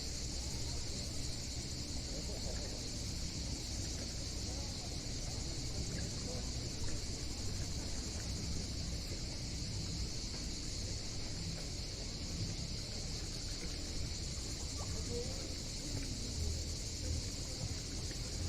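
A steady high-pitched chorus of summer insects that does not change or break, over a low rumble. Faint voices are mixed in underneath.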